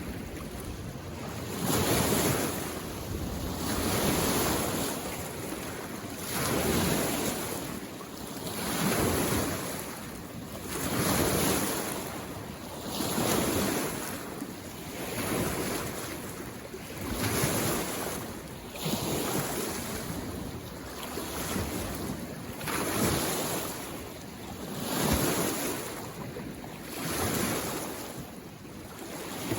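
Small waves on a mountain lake coming in and washing on the shore. Each swell rises and falls in a steady rhythm, about one every two seconds.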